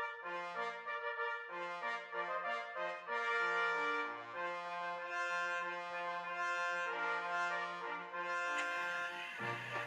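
Brass-band music playing a melody of held notes. Near the end a hiss with light clicking comes in under it.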